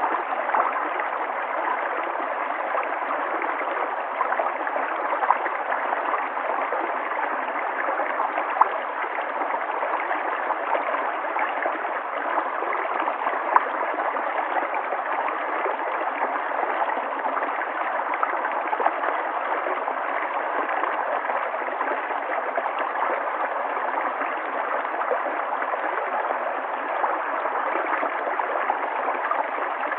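River water flowing steadily, with a constant rushing and splashing and small gurgles throughout.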